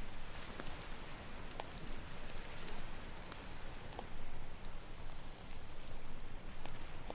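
Campfire crackling with scattered sharp pops, over a steady wash of ocean waves.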